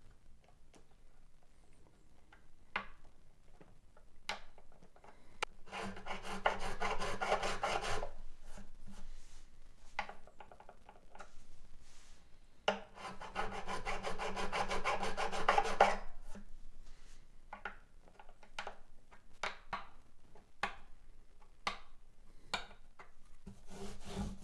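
A fret file scraping back and forth across the metal frets of a 12-string acoustic guitar, taking down a fret that sits high. It comes in two spells of about two and three seconds, with light clicks and taps between as the tool is lifted and set down.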